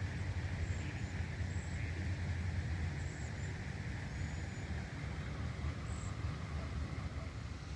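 Steady low outdoor rumble with a faint hiss, and short, faint high chirps every second or so.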